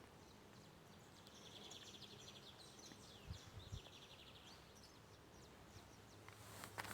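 Near silence: quiet outdoor ambience with a faint bird trill, a fast run of high repeated notes lasting a couple of seconds in the first half, and a couple of soft low knocks.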